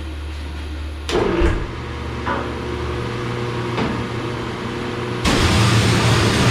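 Workshop noise: a low hum with a few sharp metallic knocks, then a loud machine starts up suddenly about five seconds in and runs on with a steady rumbling noise.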